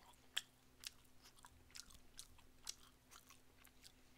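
Faint close-up chewing of a bite of kodari gangjeong, half-dried pollock in a sticky sweet-spicy chicken-style glaze, heard as a string of small irregular clicks and crackles. The clearest come about half a second and a second in.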